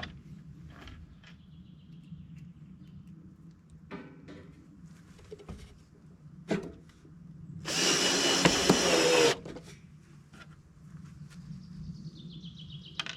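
A power tool runs in one short burst of about a second and a half, among scattered knocks and a steady low hum, with faint bird chirps near the end.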